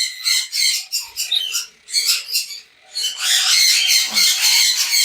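Caged conures squawking and screeching, a dense run of shrill calls that thins out about two seconds in and swells again from about three seconds.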